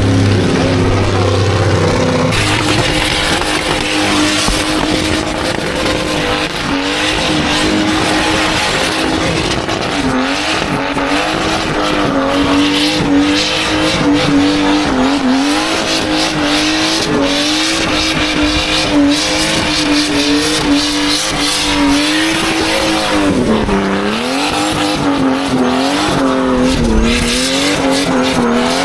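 Car doing a burnout: the engine jumps to high revs about two seconds in and is held there, dipping briefly now and then, with the tyres squealing and skidding throughout.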